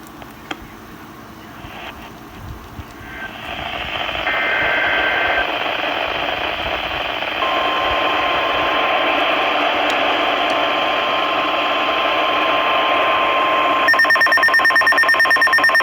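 NOAA Weather Radio broadcast: radio static swells up, and about four seconds in a brief two-tone SAME data burst sounds. About seven seconds in the steady 1050 Hz warning alarm tone starts, announcing a severe thunderstorm warning. Near the end a rapidly pulsing electronic alarm beep joins it.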